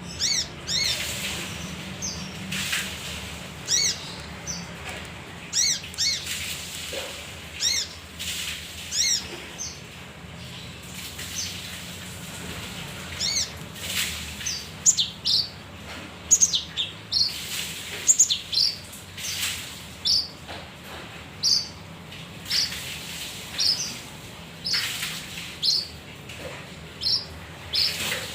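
Male kinoi singing: a run of short, high chirping notes repeated in quick irregular phrases. Now and then a brief rustling noise sounds between the notes.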